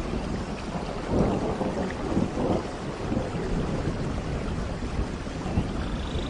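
Steady tropical rain falling, with a low, rolling rumble of thunder underneath.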